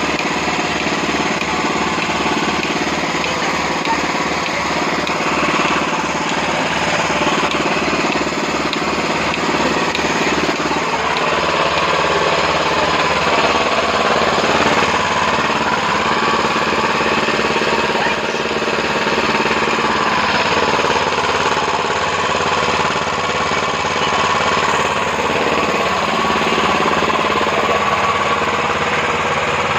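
Milking machine's 6.5 hp petrol engine running steadily, driving the vacuum pump, with a fast, even beat.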